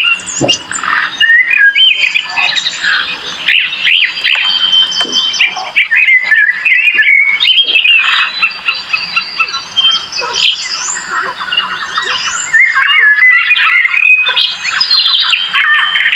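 Dense chorus of birds, many overlapping chirps, squawks and quick whistled glides.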